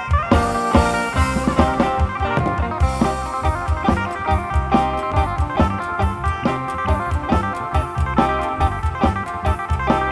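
Live Isan-style band music: an amplified phin (Thai plucked lute) melody over a steady drum-kit beat, with no singing.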